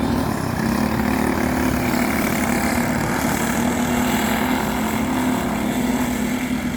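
Small single-cylinder go-kart engines running steadily during a junior kart race, a continuous lawn-mower-like drone that holds its pitch.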